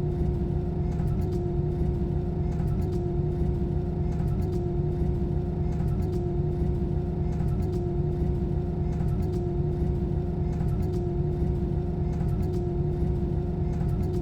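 Airbus A320 cabin noise: a steady low rumble of engines and airflow with a constant hum, heard from inside the cabin around landing.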